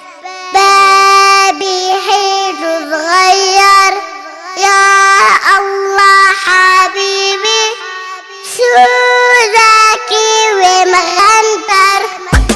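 A child singing a children's song in Arabic, the voice almost alone, with long held notes and short gliding phrases. A rhythmic musical beat with deep thumps comes in right at the end.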